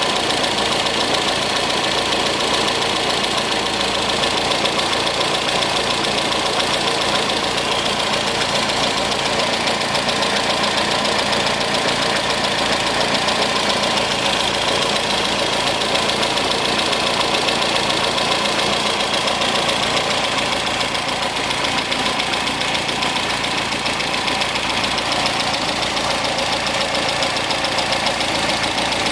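MGB engine idling steadily with a loud, even intake hiss as air is drawn through its twin SU carburettors and an airflow meter held to the intakes. The uploader says the front carburettor is not drawing any air while the rear one is.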